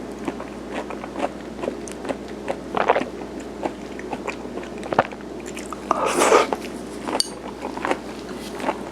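Close-up chewing of chewy garaetteok rice cake: many small wet, sticky mouth clicks at an irregular pace, with a louder rustling burst about six seconds in.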